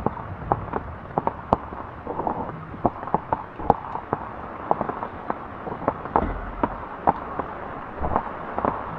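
Irregular sharp pops and crackles, a few each second, over a low steady background.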